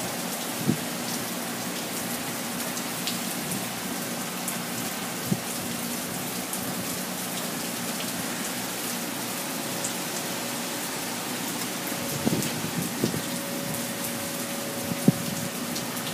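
Heavy hurricane rain falling steadily, with a few short knocks scattered through it and more of them near the end.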